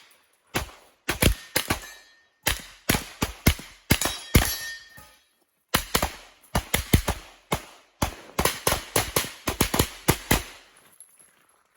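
Rapid strings of pistol-calibre gunshots, many in quick pairs, with a short pause about five seconds in and a few shots followed by a brief metallic ring from steel targets being hit.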